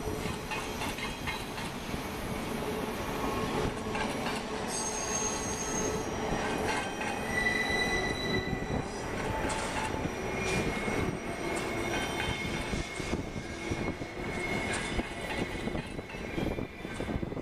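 Double-stack intermodal freight cars rolling past on a curved track, a steady rumble of wheels on rail. Wheel flanges squeal on the curve in high tones that come and go.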